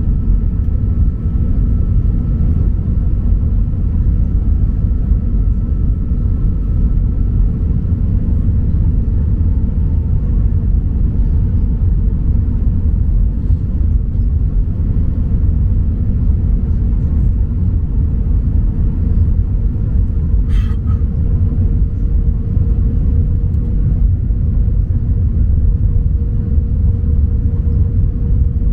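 Steady low rumble of airliner cabin noise inside an Airbus A319, with a constant mid-pitched hum over it. One brief sharp click sounds about two-thirds of the way through.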